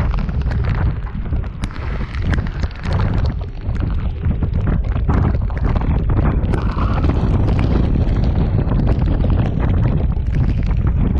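Storm-force wind buffeting the microphone: a heavy, continuous low rumble broken by frequent sharp crackles.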